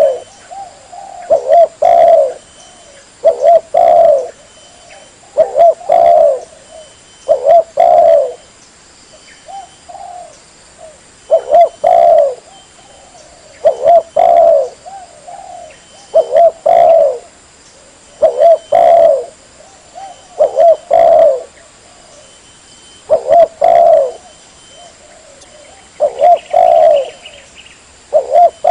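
Spotted dove (tekukur) cooing: loud phrases of a few quick notes each, repeated about every two seconds.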